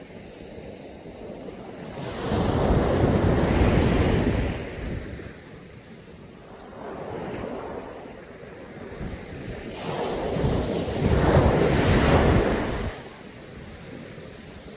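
Caribbean sea waves breaking on a sandy beach: two large waves surge in and wash out, about two seconds in and again about ten seconds in, with a smaller one between them, over a steady background wash of surf.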